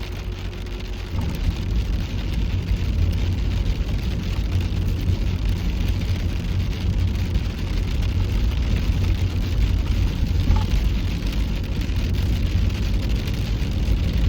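Heavy rain, a steady loud rush with a deep rumble underneath, growing louder a little over a second in.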